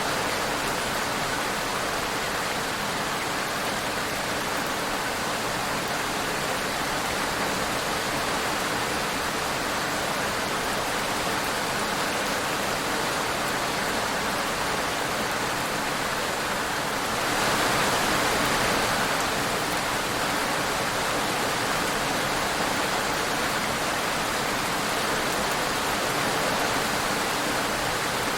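Steady rain falling, a dense even hiss of many drops, swelling a little louder for a few seconds past the middle.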